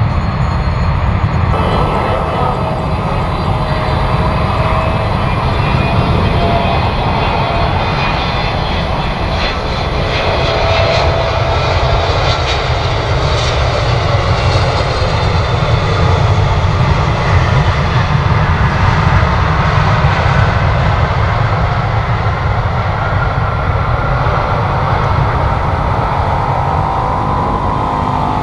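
Jet airliner's engines running loudly and steadily, with a faint whine above the noise that slowly shifts in pitch.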